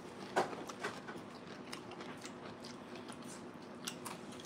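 Close mouth sounds of chewing crisp tostadas, with a few short crunches, the loudest about half a second in.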